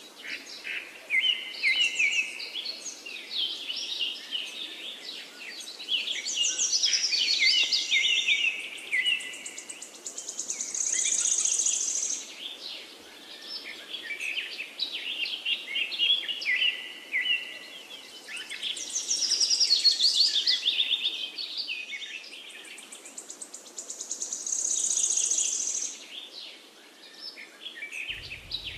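Many small birds chirping and chattering together without a break, full of quick high trills and buzzy calls that swell up every few seconds.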